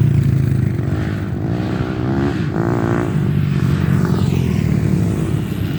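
Off-road trail motorcycle engines running, with an engine revving up and down about two seconds in.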